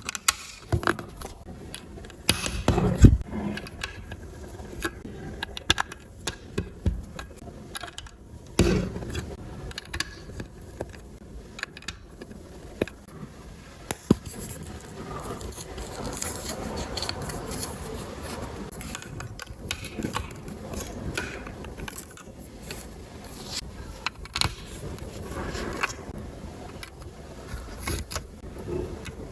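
Plastic LEGO bricks being handled and snapped together: scattered sharp clicks and knocks with scraping and rustling between them, the loudest knock about three seconds in.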